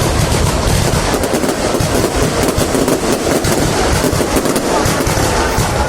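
Fireworks display: a dense, unbroken crackle of many small bursts over a deep rumble of booms.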